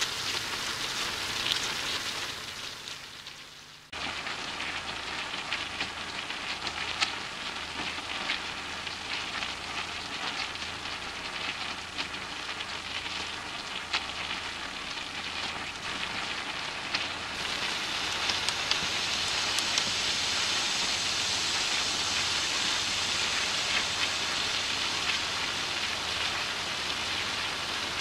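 Mutton curry sizzling and bubbling in oil in a large aluminium kadai: a steady hiss with scattered small pops. It fades out about four seconds in, cuts back in, and turns louder and hissier in the last third.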